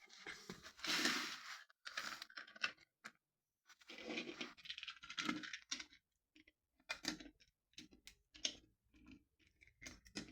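Irregular scratching, rustling and clicking of plastic toy trains being handled, in short bursts with pauses between them.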